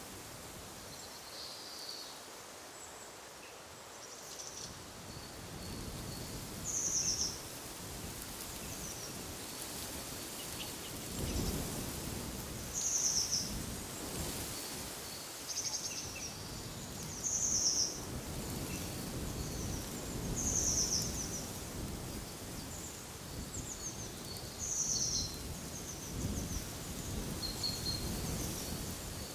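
Birds giving short, high calls every few seconds over wind gusting through trees, with low gusts swelling and fading.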